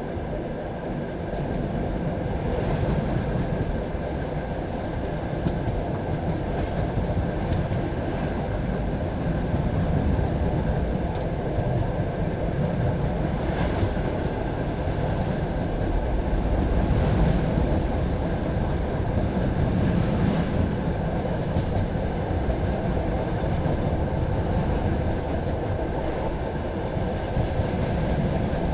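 Passenger train carriage running along the track: a steady rumble of wheels on rail, with a few sharper clacks from the rail joints.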